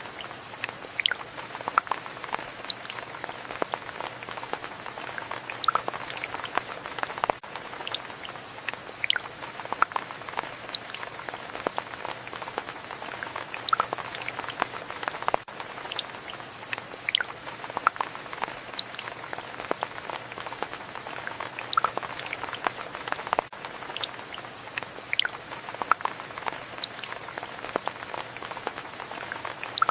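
Steady rain with many separate drops tapping sharply close by. A faint high tone falling in pitch recurs about every eight seconds.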